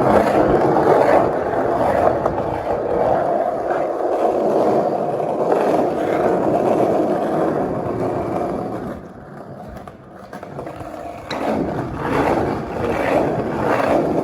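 Skateboard wheels rolling on a concrete parking-garage ramp, a steady rumble that eases off for a couple of seconds about two-thirds of the way through, then picks up again.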